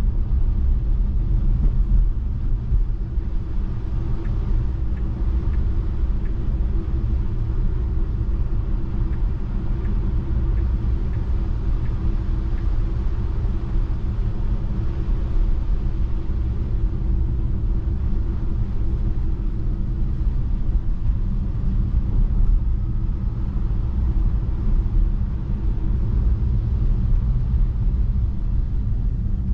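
Steady low rumble of a Tesla Model 3 driving on a snow-covered road: tyre and road noise, with no engine sound.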